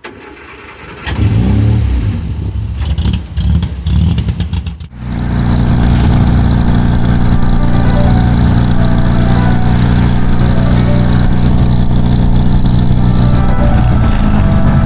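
Austin-Healey Sprite Mk2's four-cylinder OHV engine and exhaust, blipped in short revs from about a second in, then running steadily after a brief drop near five seconds.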